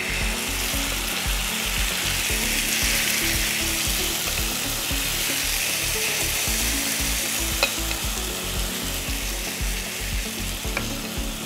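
Chicken pieces frying in hot oil in a non-stick pan, sizzling steadily as a thick marinade is spooned over them. Two light ticks come in the second half.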